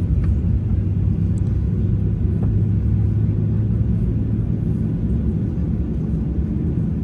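Boeing 737-800 airliner cabin noise heard from inside the passenger cabin: a steady low rumble with a low hum underneath.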